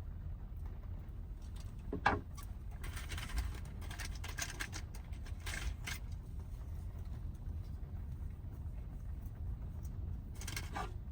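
Low, steady road and engine rumble inside a Toyota Hiace van's cabin while driving, with a few brief clicks and rattles about two seconds in, in the middle and near the end.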